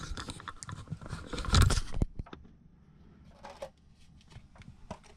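Handling noise: rustling and scraping, loudest about one and a half seconds in, then scattered light clicks and taps.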